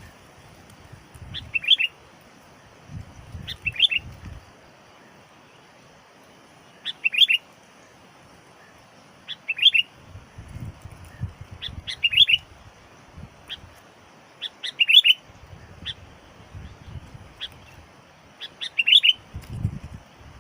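Sooty-headed bulbul (kutilang) calling in short, bubbly chirping phrases, repeated every two to three seconds. Intermittent low rumbles sit underneath.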